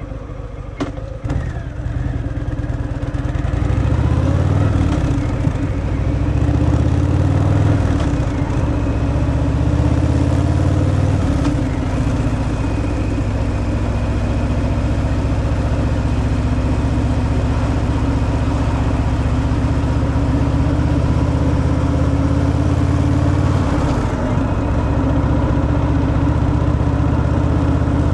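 Harley-Davidson Fat Boy's V-twin engine through its stock exhaust, under way. It accelerates with rising pitch over the first few seconds, dips briefly a few times as it changes gear, then runs steadily at cruise, with one more dip near the end.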